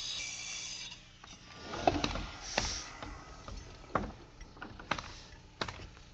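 A power saw runs steadily and stops about a second in. Then a pneumatic nail gun fires about five single shots into plywood floor sheathing at uneven intervals, a few with a short hiss of air.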